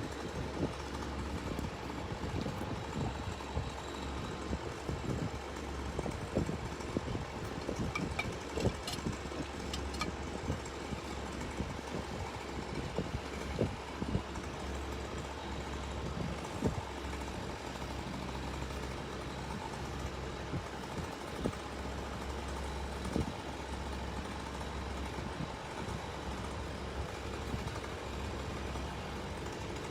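An engine running steadily at low speed, with scattered knocks and clicks over it.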